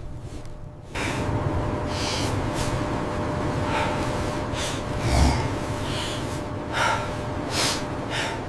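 A series of short, sharp gasping breaths and snorts over a steady rushing noise, with a low thud about five seconds in.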